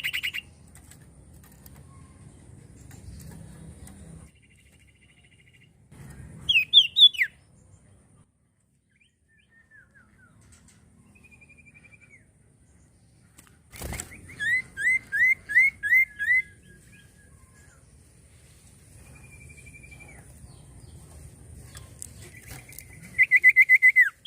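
Common iora singing: short phrases of quick, clear whistled notes, a few seconds apart, with softer single whistles between them. A sharp click a little before the middle.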